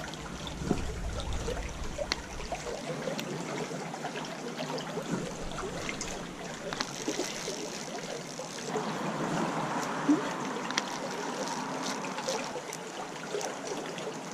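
Creek water trickling and running over rocks in a steady wash, with scattered small ticks and clicks; the flow sounds fuller about nine seconds in.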